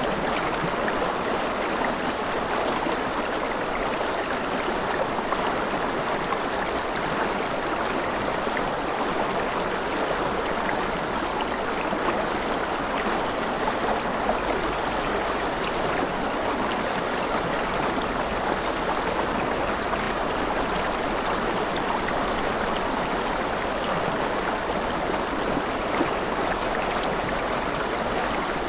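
River water flowing and splashing, a steady rushing with small splashes and trickles.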